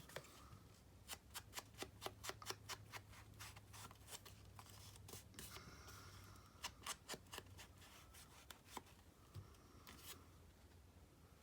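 Faint, sharp clicks and rustles of paper and card being handled, in two runs of quick ticks with a pause between them.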